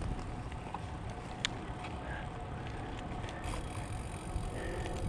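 Wind rumbling on the microphone of a moving bicycle, with a faint steady tone and a single sharp click about a second and a half in.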